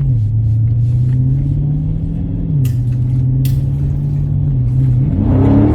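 A car engine running with a low, steady drone whose pitch steps down and back up a few times, then rises as it revs in the last second.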